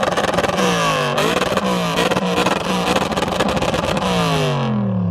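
A supercar engine revved hard and held at high revs with a harsh, rasping exhaust. Its pitch drops back and climbs again several times, then falls away steadily near the end.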